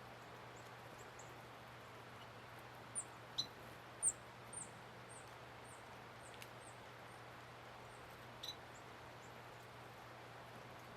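Small feeder birds giving short, very high chip calls, a quick run of them about two a second starting about three seconds in, over a faint steady hiss.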